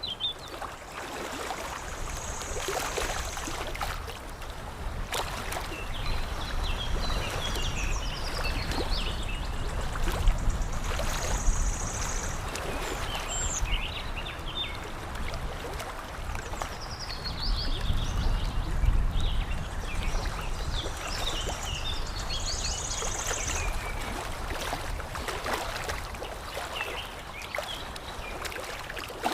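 Water lapping with a steady low rumble, and small birds chirping and singing over it in short gliding phrases; a high, held whistle-like note comes three times, about ten seconds apart.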